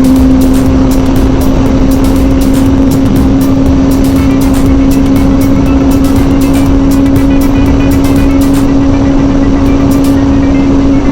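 Kawasaki ZZR600's inline-four engine running at steady high revs while cruising at highway speed, one constant engine note over a loud rush of wind noise.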